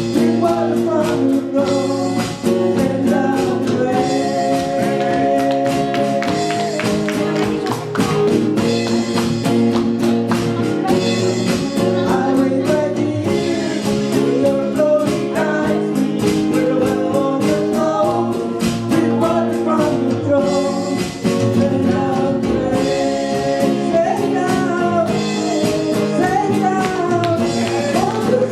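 Gospel worship song: a singer carries the melody over guitar accompaniment with a steady rhythm.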